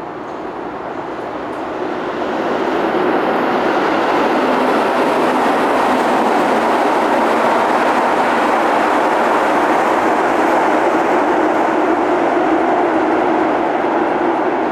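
A train passing: a steady noise that builds over the first few seconds, holds, then eases slightly near the end.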